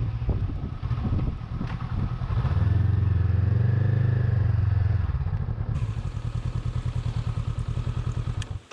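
Honda CB500X parallel-twin engine running at low revs, its separate firing pulses plain. It swells louder for a couple of seconds midway, then cuts off suddenly near the end.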